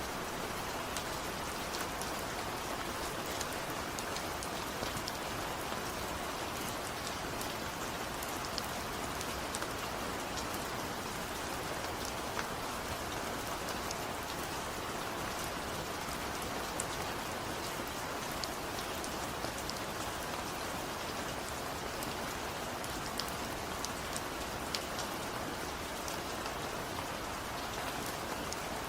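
Steady rain falling, an even hiss with scattered sharp drop ticks on top.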